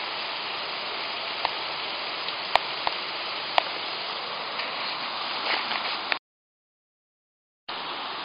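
Steady rushing of a river below, with a few sharp clicks over it. The sound cuts out to dead silence for about a second and a half near the end, then the rushing returns.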